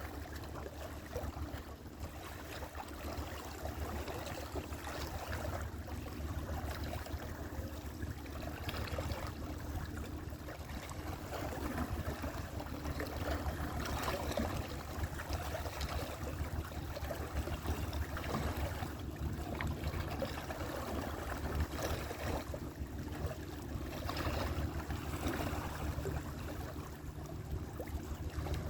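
Sea water washing and lapping: a continuous watery rush that swells and eases, over a steady low rumble.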